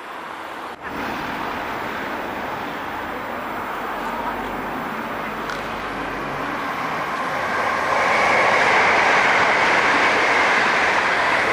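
c2c Class 357 Electrostar electric multiple unit approaching along the main line and passing through the station. The rumble of its wheels on the rails grows steadily louder and is loudest over the last few seconds as it passes close by.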